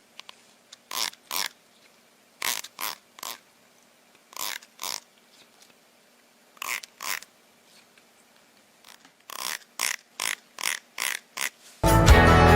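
An animal's short, noisy breaths or snorts, mostly in pairs and triplets with pauses of a second or two between. Music comes in near the end.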